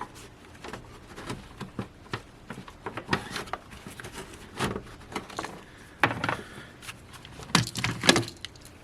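Irregular clicks, knocks and rubbing of the plastic radiator fan shroud being pushed and worked into its latches by hand in the engine bay. The loudest knocks come about two-thirds of the way in and near the end.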